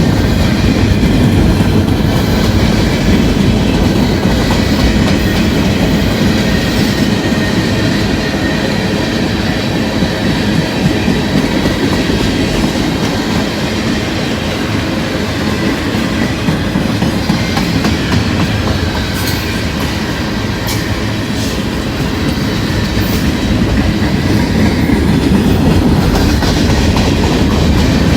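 Freight train cars rolling past at steady speed: a continuous rumble of wheels on rail with clickety-clack over the rail joints and a few sharp clicks.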